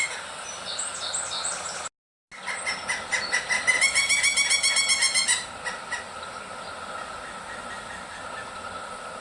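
Woodpecker calling: rapid runs of harsh repeated notes, broken by a brief cut to silence about two seconds in, with a longer run after it. A steady high hum carries on underneath through the second half.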